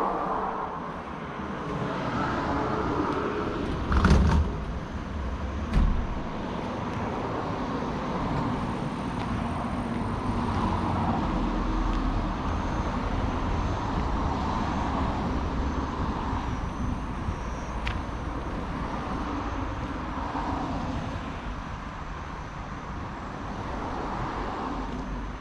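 A motor vehicle running with a steady rumble and road noise, with two sharp thumps about four and six seconds in.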